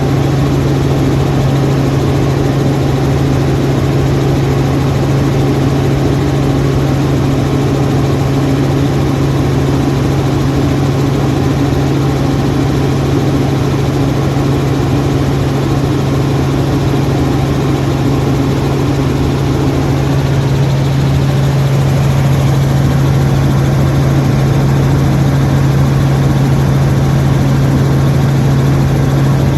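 Helicopter in flight: a steady, loud drone of rotor and engine with a constant low hum that does not change.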